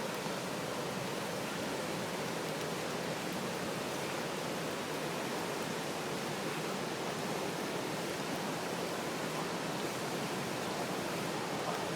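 Steady roar of the Deerfield River running high with hurricane floodwater, an even rush of water without breaks.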